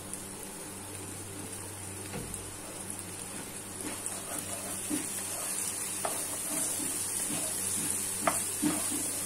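Blended spice paste frying in a non-stick wok as thick soy sauce is stirred through it with a wooden spatula: a steady sizzle that grows louder over the second half. There are a few sharp taps of the spatula against the pan near the end.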